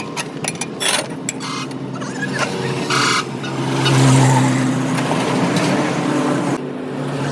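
Several sharp knocks in the first second and a half, then a vehicle engine running, growing louder around four seconds in and easing off.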